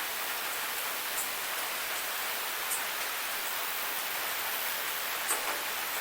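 Waterfall rushing steadily, a constant hiss of falling water with a few brief, high ticks of splashing droplets.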